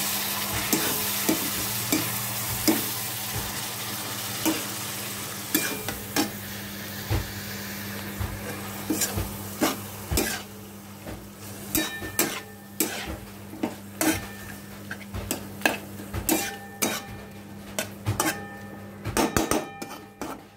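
Chopped tomatoes and onions sizzling in oil in a steel wok while a metal spatula stirs them, scraping and clicking against the pan. The sizzle is strongest in the first few seconds, and the spatula's scrapes and clicks come thicker toward the end.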